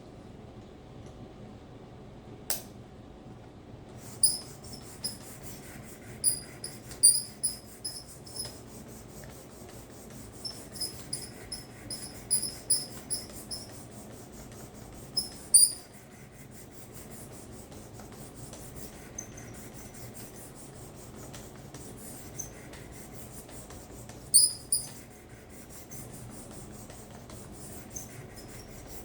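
600-grit diamond stone of a Work Sharp guided sharpener stroked along a karambit's edge: a soft steady rubbing with short, high-pitched squeaks on many strokes, in clusters from about 4 to 16 seconds in and again around 25 seconds.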